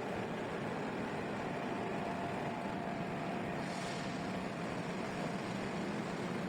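Milling machine running steadily while cutting a keyway: an even mechanical noise with a faint hum, and a brief higher hiss a little past halfway.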